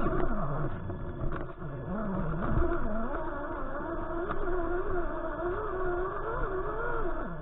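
Electric motor and gearing of a Traxxas 6x6 RC crawler whining, the pitch rising and falling constantly with the throttle as it crawls over rocks. There is a low rumble and a few short knocks.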